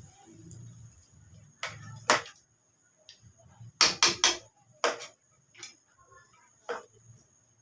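Irregular sharp clicks and knocks, three in quick succession about four seconds in.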